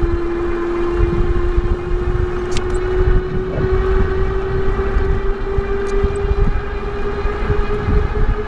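Electric bike's motor whining at one steady pitch that creeps slightly higher, over a heavy low rumble of wind on the microphone.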